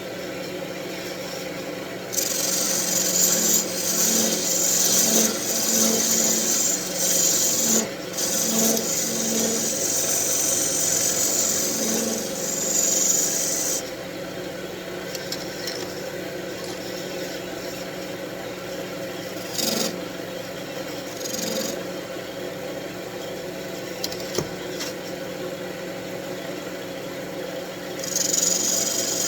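Wood lathe motor running with a steady hum while a turning tool cuts a detail into the spinning wooden wand. The cutting is a loud, hissing scrape from about two seconds in to about halfway, then stops and starts again near the end.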